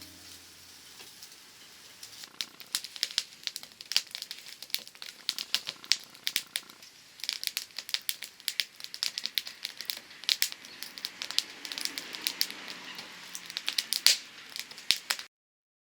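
Wood burning in a campfire, crackling and popping with many sharp, irregular snaps over a soft hiss. The sound cuts off abruptly near the end.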